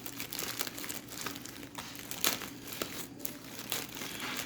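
Plastic bag of dry starch crinkling and rustling as it is handled, in many short irregular crackles, over a faint steady hum.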